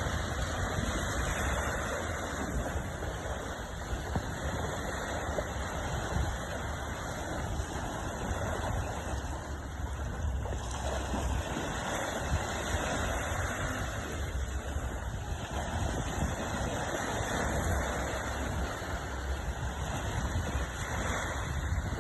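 Sea waves washing in and out, swelling every few seconds, with wind buffeting the microphone as a steady low rumble.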